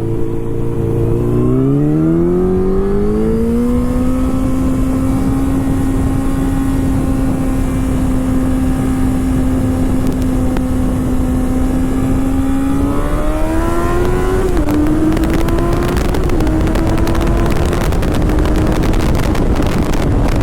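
Motorcycle engine under way: it accelerates over the first few seconds, holds a steady cruising pitch, then revs up again and drops in pitch about fourteen seconds in, as if shifting up a gear. Heavy wind buffeting on the microphone runs underneath.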